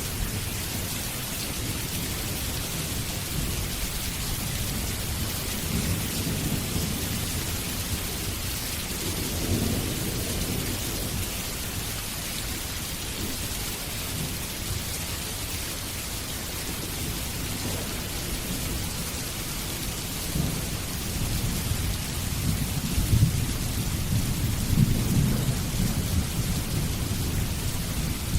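Steady heavy rain, with low rolls of distant thunder rumbling under it, once about a third of the way in and again, louder, through the last third.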